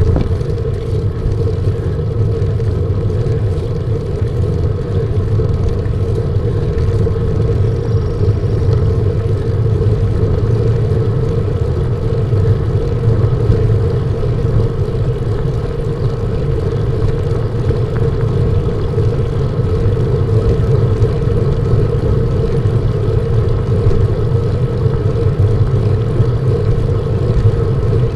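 Wind rushing over the microphone of a camera riding along on a moving bicycle: a loud, steady rumble with a constant hum running under it.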